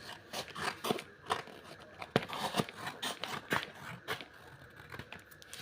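Haircutting scissors snipping: a quick, irregular run of a dozen or so sharp cuts that thins out toward the end.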